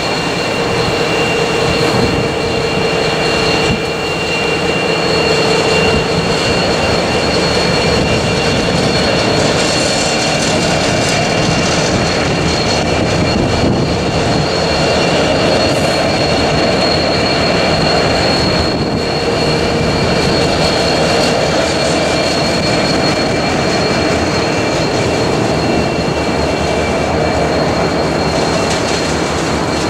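Three Pacific National TT-class diesel-electric locomotives hauling a coal train past at close range, their engines running with a steady high whine over a deep rumble. Near the end the coal wagons are rolling by.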